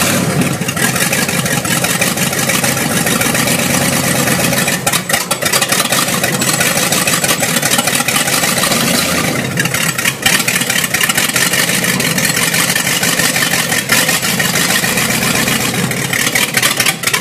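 A 1969 Plymouth Fury's engine running loudly, its note rising and falling a few times as the car is reversed a few feet in gear under its own power.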